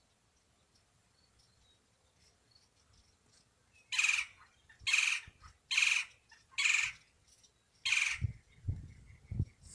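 A bird giving five loud, harsh calls roughly a second apart, starting about four seconds in, over faint thin chirps. A few low thumps follow near the end.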